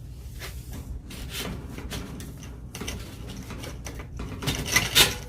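Irregular clicks and clattering knocks of gear being handled, with the loudest sharp clacks about five seconds in.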